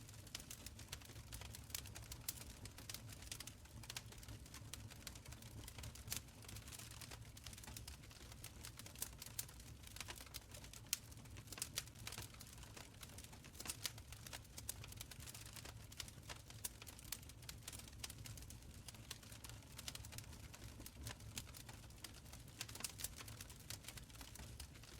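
Wood fire crackling in a stone fireplace: a steady run of irregular small pops and snaps over a low, even rumble of flames.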